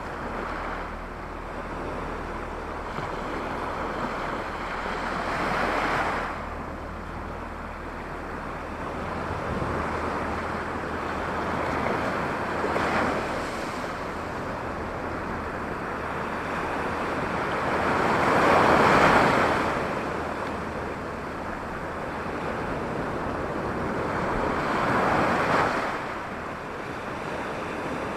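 Gentle sea waves washing onto the shore, each surge swelling and falling away about every six seconds, the biggest about two-thirds of the way through. A steady low wind rumble lies underneath.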